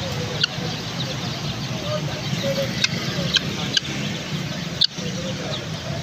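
A handful of short, sharp, high bird chirps from caged birds, spaced irregularly a second or so apart, over a steady low hum of street traffic.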